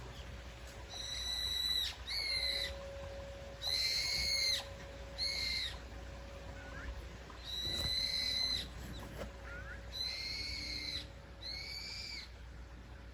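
A bird calling over and over with clear whistled notes, about seven calls in loose pairs of a longer note followed by a shorter one, over a faint steady background hum.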